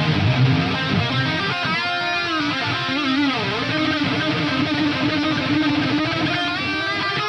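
Rock instrumental music led by electric guitar: a lead line swoops up and down in pitch, then settles about halfway through into one long held note with vibrato.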